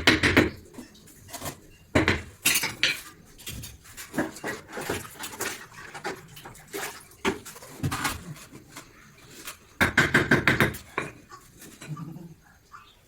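Irregular clinks and knocks of hard objects being handled, with bursts of quick rattling about two and a half seconds in and again around ten seconds in.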